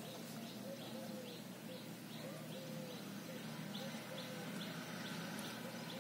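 Faint bird chirping: a regular run of short high chirps, about three a second, over a lower repeated call.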